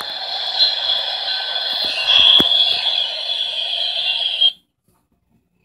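Passing freight train's wheels on the rails, a steady rushing noise with no bass, heard through a computer's small speaker. It cuts off abruptly about four and a half seconds in, as the live stream drops out.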